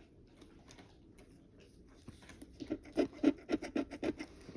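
Scratch-off lottery ticket being scratched: faint scrapes at first, then from about two seconds in a quick run of short scraping strokes, about five a second, that stops shortly after four seconds.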